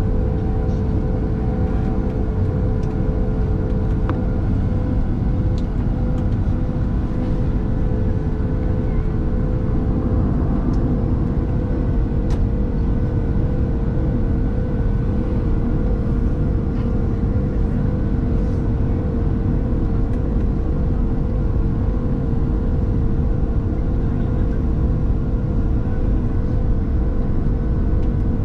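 Cabin drone of a Boeing 737-700's CFM56-7B turbofan engines running steadily at low power: a constant low rumble with a steady hum over it.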